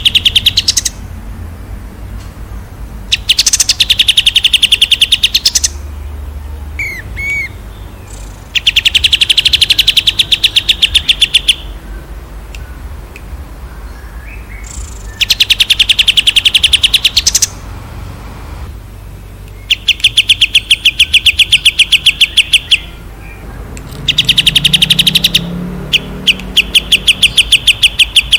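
A songbird singing long, fast trills: bursts of two to three seconds of rapidly repeated high notes, about ten a second, separated by short pauses, about seven bursts in all. A faint low hum runs underneath.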